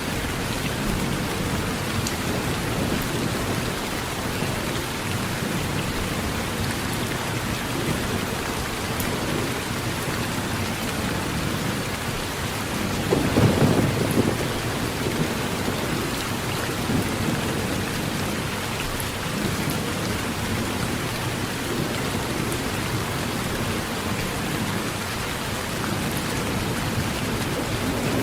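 Steady heavy rain drumming on a tin roof, with one rumble of thunder swelling up about halfway through.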